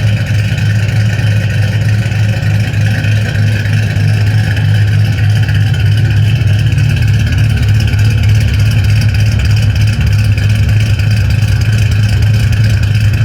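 2006 Ford Mustang's exhaust through Spintech mufflers, running with a steady, loud low drone that gets a little louder about four seconds in.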